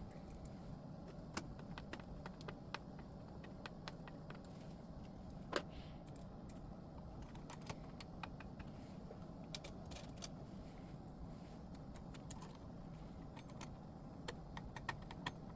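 Scattered small clicks and light metallic taps from handling parts and tools while reassembling a vintage amplifier, with one louder tap about five and a half seconds in, over a faint steady hum.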